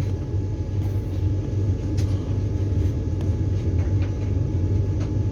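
Cabin running noise of a Vande Bharat Express electric trainset pulling out of a station and picking up speed: a steady low rumble with a few light clicks, the clearest about two seconds in.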